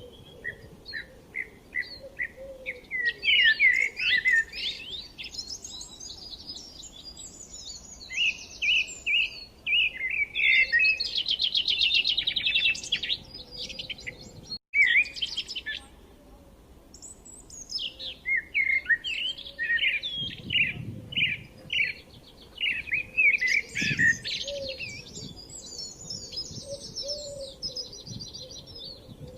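Songbirds singing: a busy run of chirps, quick repeated notes and fast trills, with a momentary break about halfway through.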